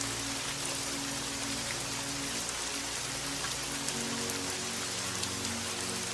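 Steady rain with individual drops pattering, over soft sustained low music notes whose chord changes about two-thirds of the way through.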